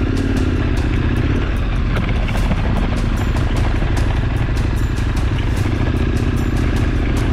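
KTM 1290 Super Adventure R's V-twin engine running steadily under load off-road, with frequent short clicks and knocks over it.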